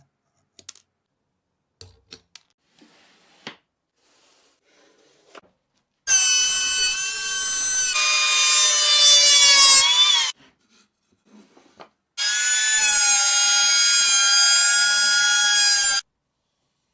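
A handheld power tool's electric motor runs twice, about four seconds each time, with a steady high whine whose pitch sags slightly near the end of the first run. A few light clicks and taps come before it.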